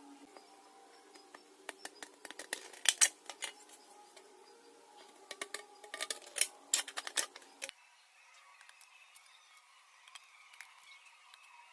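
Scissors cutting thin tin-plate: two runs of sharp snips and clicks, the first about two seconds in and the second about five seconds in, then only faint ticks.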